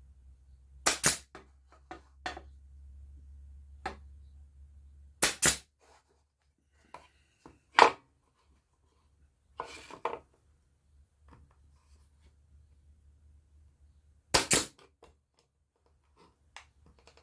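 Pneumatic pin nailer firing: sharp snapping shots, mostly in quick pairs, four times over several seconds, with smaller clicks between. A low hum runs under the first few shots and stops about five seconds in.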